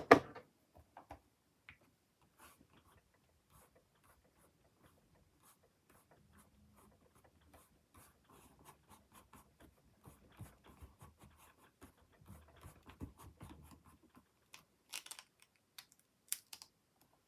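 Paper-craft stamping tools being handled: a sharp knock at the start, then faint scratching and rubbing, with a couple of short clicks near the end.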